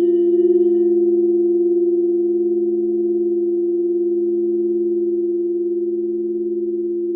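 Several crystal alchemy singing bowls ringing together as steady, pure tones that slowly fade. Faint high overtones die away about a second in.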